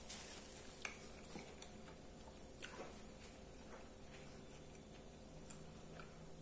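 Faint closed-mouth chewing of a soft hamburger, with scattered small mouth clicks.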